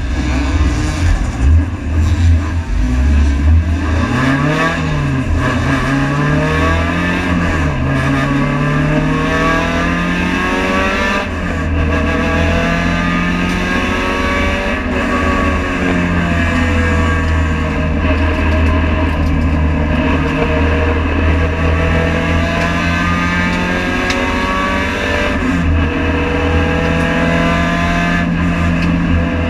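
Honda Civic FD2 race car's engine at full throttle, heard from inside the cabin: its pitch climbs through each gear and drops at each upshift, several times, over a heavy low drone of road and wind noise.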